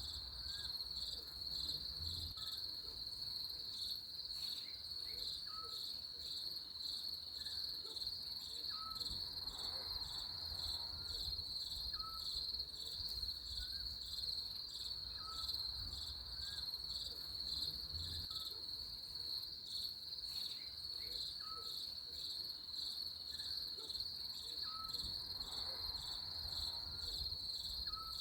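A steady chorus of crickets trilling, a continuous high pulsing drone, with short lower chirps repeating every second or two.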